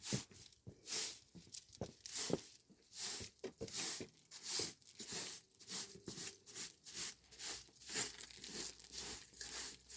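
Rhythmic rustling, scraping strokes, about two a second, steady throughout.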